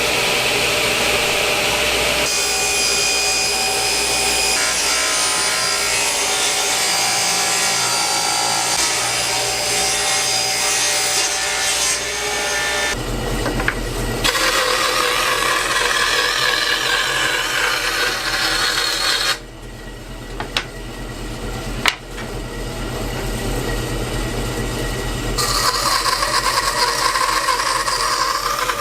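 Power tools running and cutting wood, heard in a string of short clips that change abruptly. In one stretch a motor hums steadily, and there is a quieter stretch with a few sharp clicks.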